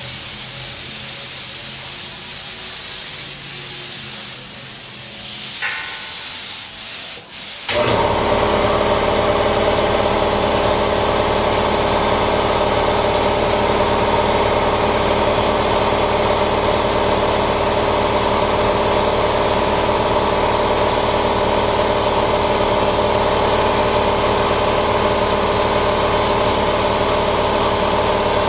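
Paint spray gun hissing for about eight seconds, then a machine starts abruptly and runs steadily, a loud hum made of several steady tones.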